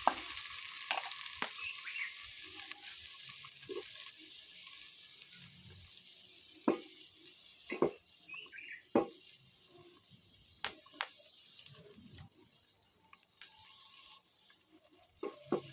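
Chopped tomatoes hitting hot oil and frying onions in a cooking pot, a loud sizzle that slowly dies down, with sharp knocks of stirring against the pot in the middle.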